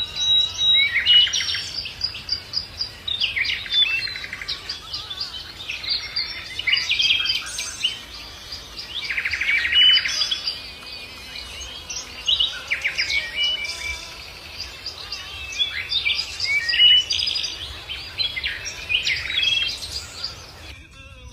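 Songbirds singing: quick chirping and trilled phrases repeated every two to three seconds with short pauses between them, over a faint steady background. The song cuts off suddenly near the end.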